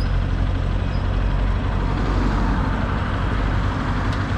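Honda CRF150L motorcycle on the move: a steady engine drone under a constant rush of wind on the microphone.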